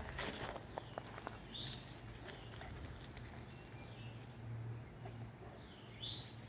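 A small wild bird chirping twice, a short high call about a second and a half in and the same call again near the end, over a faint low steady hum.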